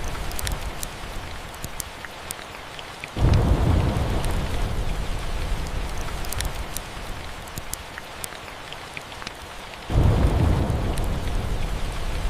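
Steady rain with a low roll of thunder that breaks in suddenly about three seconds in and again about ten seconds in, each fading slowly. Sharp fireplace crackles are scattered throughout.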